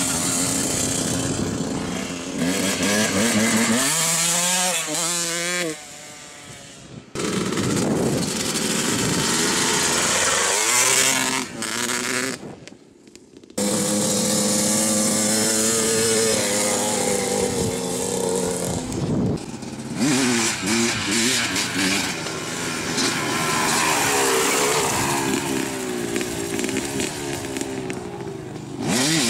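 Dirt bike engine running and revving, its pitch rising and falling repeatedly, with the sound dropping away abruptly twice.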